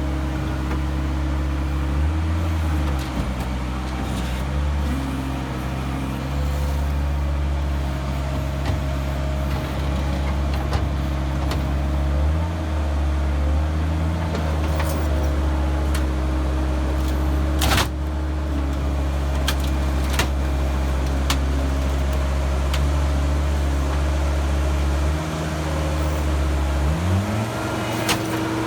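Heavy equipment engine running under load, its pitch dropping and recovering several times and rising near the end. A sharp knock about 18 seconds in.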